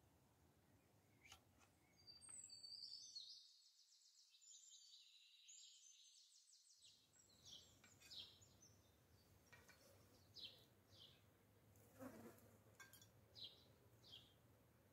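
Faint birdsong in a garden: a high, rapid trill in several pitch steps about two seconds in, then scattered short, high chirps.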